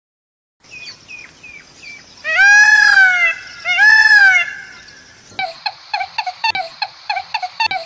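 Bird calls: a few short falling chirps over a steady high whine, then two loud, drawn-out calls that rise and fall in pitch, then a rapid run of repeated call notes, about five a second.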